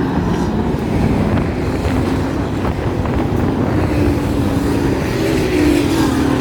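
Short-track Pro Truck engines running at reduced pace under a caution period, a steady drone whose pitch bends gently up and down as the trucks circle past.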